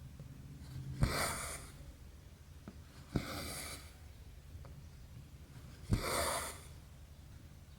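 Needle and thread being pulled through cross-stitch canvas three times: each stroke is a sharp tick as the needle pierces the fabric, followed by a short rasp of the thread drawing through.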